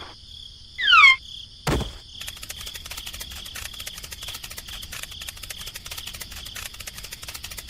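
A brief high squeak falling in pitch, then a single sharp knock, followed by a steady, fast insect-like chirring that continues to the end.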